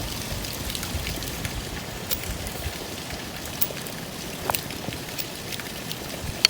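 Wood campfire crackling with fish grilling on sticks over it: scattered sharp pops over a steady hiss.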